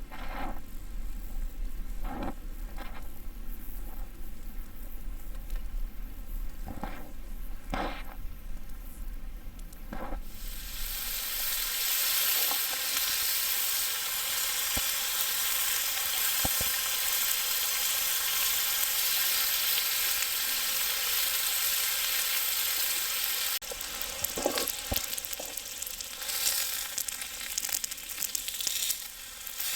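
A few sharp knocks and clatters, then about ten seconds in a loud, steady sizzling like food frying in a pan over the campfire, with more clatter near the end.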